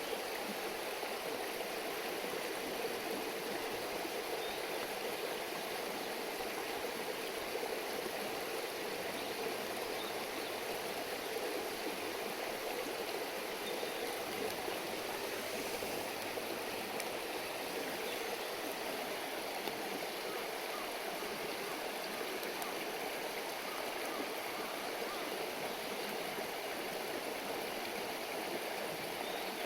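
A river stream babbling steadily.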